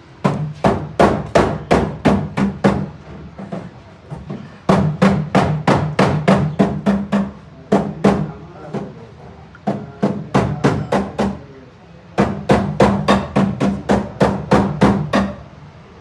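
Runs of sharp knocks, about three a second, each with a low ring, broken by short pauses.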